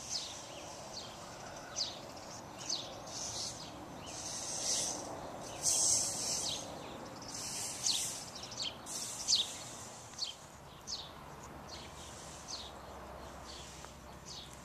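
Birds chirping outdoors: a run of short, high chirps, about one a second, over a faint background hiss.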